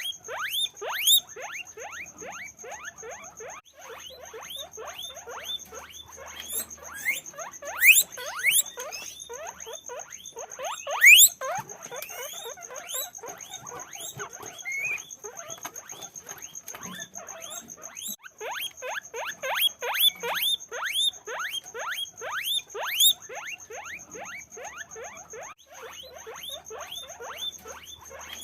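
Guinea pigs squeaking: a continuous run of short, rising squeaks in quick succession, often overlapping, with a few louder ones now and then.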